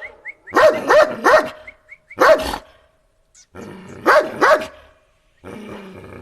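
Dog giving short, growly "arr" barks: a quick run of about three, a single one about two seconds in, and another run of about three. A lower, drawn-out growl follows near the end.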